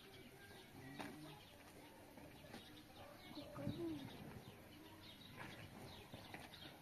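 Faint bird calls, with one low call that rises and falls about halfway through.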